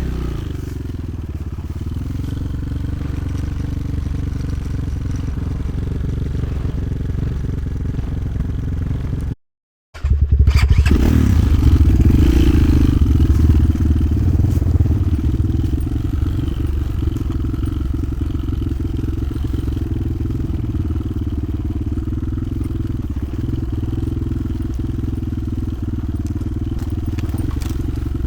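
Motoland XR 300 Lite enduro motorcycle engine running while riding. The sound cuts out completely for about half a second about nine seconds in, then comes back louder, with a short rise in engine pitch.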